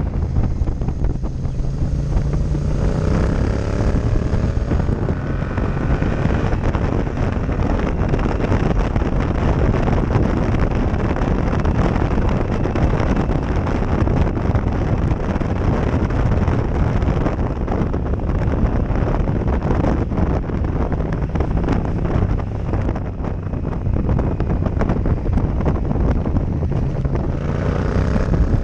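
Heavy wind noise buffeting a helmet-mounted GoPro's microphone, over a Yamaha MT-07 Tracer's parallel-twin engine running underneath. The engine rises in pitch as it accelerates a few seconds in and again near the end.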